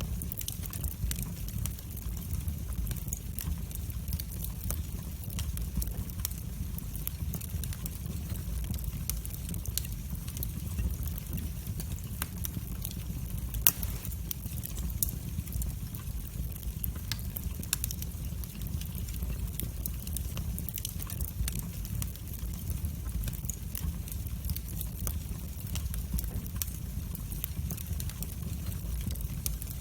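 Wood fire burning in a fireplace: a steady low rumble of flames with frequent small crackles, and one sharper pop about halfway through.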